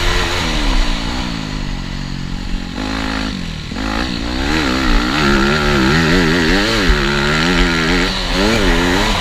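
TM Racing 250 FI motocross bike engine under riding, revving up and down as the throttle is worked. It briefly drops off about three seconds in, then rises and falls rapidly, about once or twice a second.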